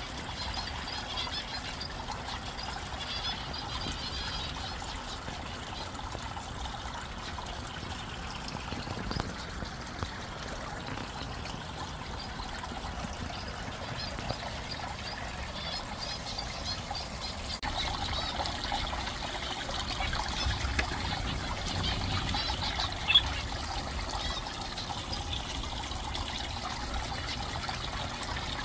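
Water from a pumped pondless waterfall trickling and splashing steadily over the rocks, with faint chirps of small aviary birds over it. A single sharp click about three-quarters of the way through.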